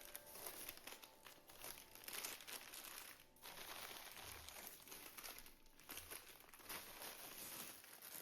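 Faint, uneven crinkling and crackling noise.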